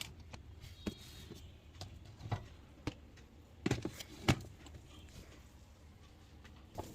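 Plastic food boxes being set back onto refrigerator shelves: scattered light knocks and clicks, several over a few seconds.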